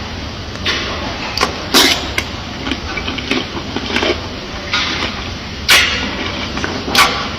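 A gorilla eating: irregular crunching and smacking chews, with louder bites about two seconds in, around six seconds and near the end.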